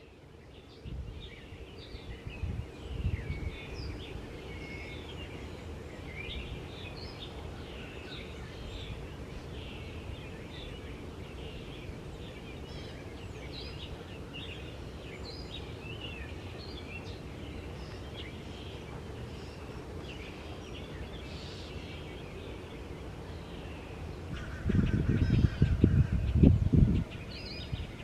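Songbirds chirping and singing over a low outdoor rumble, with loud gusts of wind buffeting the microphone near the end.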